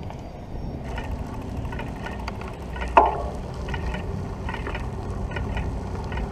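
Wind rumbling over the microphone and tyre noise from a moving bicycle, with faint rattling ticks and one sharp knock about three seconds in.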